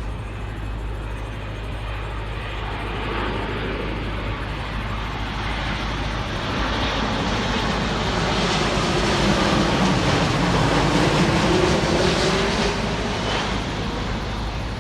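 Jet airliner passing over on its landing approach. Its engine noise swells to a peak about two-thirds of the way through, with a slowly falling tone, then eases off.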